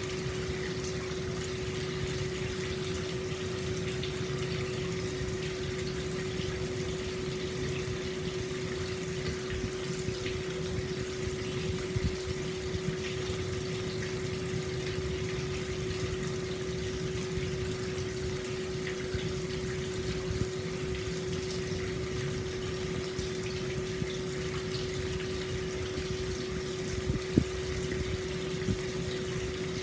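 Hot spring water flowing steadily out into an open-air stone bath, an even rush of water with a steady hum under it and a couple of brief louder splashes, one near the end.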